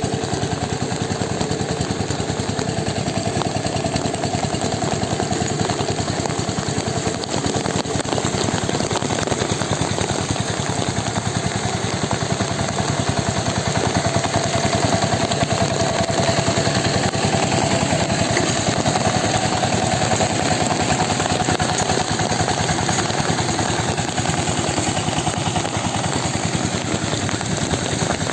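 A small engine running steadily, with rapid, even firing pulses and no change in speed.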